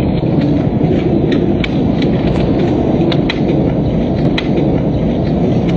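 Wood fire burning with a steady low rumble and scattered sharp crackling pops.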